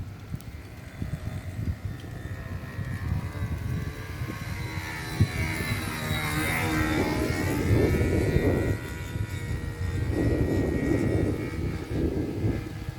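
Radio-controlled model airplane with an OS .46 two-stroke glow engine flying past, its high engine whine swelling and changing pitch as it passes about halfway through.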